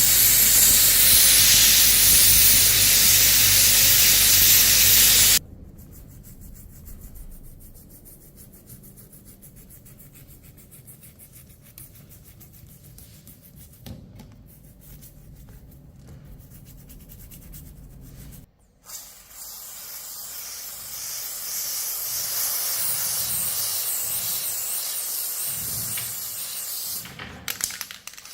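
Loud steady hiss of a spray that cuts off suddenly about five seconds in. Quieter workshop sounds follow, and then the hiss starts again and builds from about twenty seconds in.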